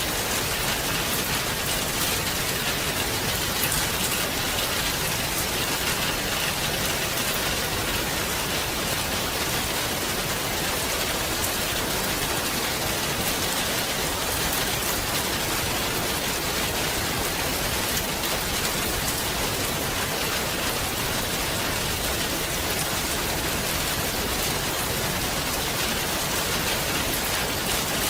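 Steady, heavy rain falling, a dense even hiss with fine droplet patter on surfaces.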